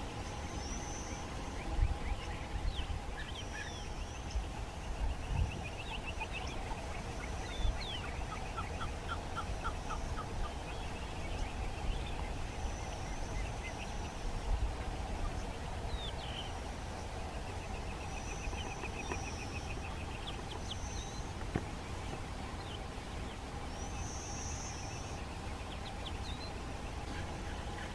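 Birds calling outdoors: repeated rapid trills and short high chirps come and go, over a steady faint hum and low rumble.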